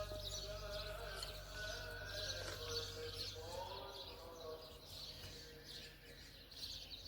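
Birds chirping over and over in short high calls, with faint distant voices and a steady low hum underneath.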